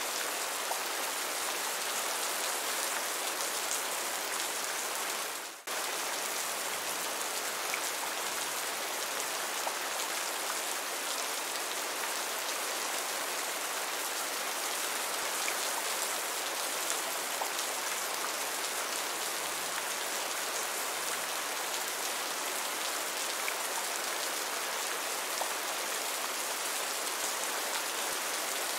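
Heavy rain falling steadily, an even rushing hiss. There is a brief drop in level about five and a half seconds in, then it carries on unchanged.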